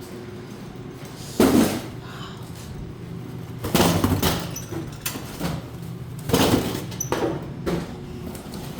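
Irregular thumps and bangs, about six in all, as boxes and bins are handled and set down, over a steady low hum.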